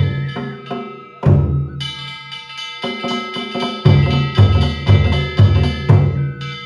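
Danjiri narimono (festival float music) played live: heavy strikes on a large taiko drum with metal hand gongs (kane) clanging and ringing on above it. The drum hits come irregularly, then several in quick succession about four seconds in.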